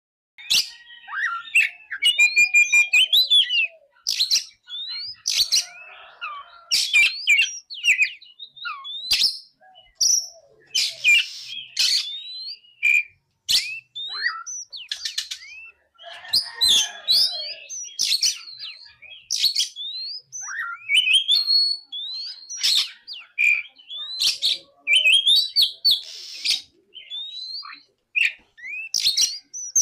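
Oriental magpie-robin (kacer) singing: a varied, continuous song of short whistled phrases sliding up and down, with fast repeated notes and sharp chips, and a few harsher, raspy phrases mixed in.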